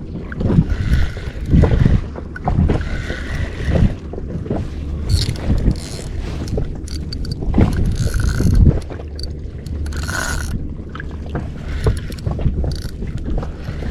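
A fishing reel being cranked, its gears and ratchet clicking, with irregular knocks and rustling on a small inflatable boat.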